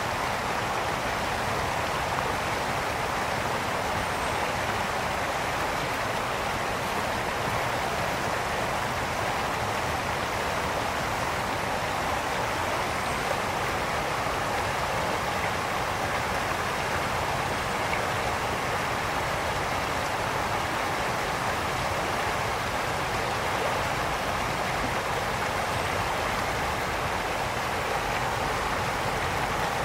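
A brook flowing steadily: an even, unbroken rush of water.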